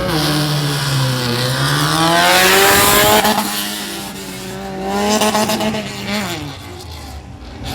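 Race car engine dipping in revs, then climbing as the car passes close, loudest about three seconds in with a rush of tyre noise. The engine note rises again around five seconds in, then falls away.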